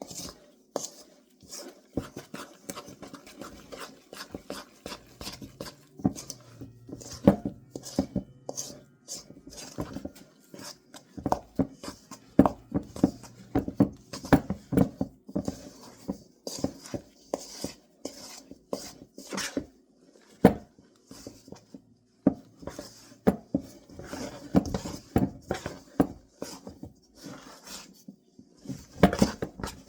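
A spoon mixing sticky drop-biscuit dough in a mixing bowl: irregular clicks and knocks of the spoon against the bowl, without letup.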